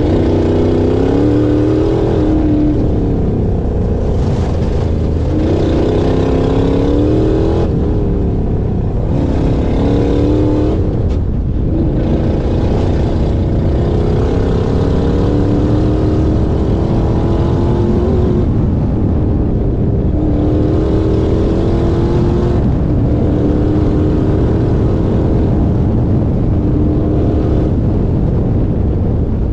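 Off-road race car engine pulling hard, its pitch climbing and dropping back several times in the first dozen seconds as it shifts up, then rising slowly and holding a steadier pitch, over a constant low rumble of wind and rough dirt track.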